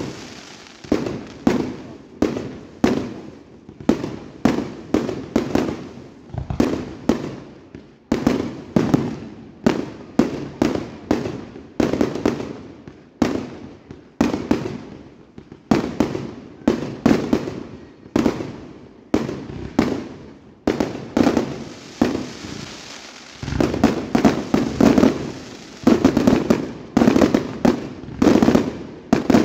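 Aerial fireworks going off in a continuous barrage: sharp bangs about twice a second, each with a short decaying tail, coming thicker and louder in the last few seconds.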